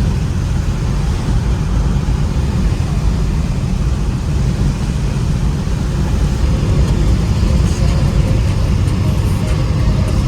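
Ford Mustang driving at speed, heard from inside the cabin: a steady, low drone of engine and road noise.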